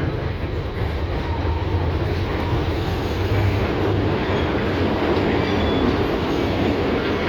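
LVS-2009 tram running on the rails: a steady rumble of wheels and running gear that grows a little louder over the first few seconds.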